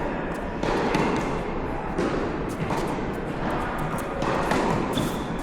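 Tennis balls struck by rackets and bouncing on the court during a rally, several sharp hits spaced about a second or more apart, with the echo of an indoor hall.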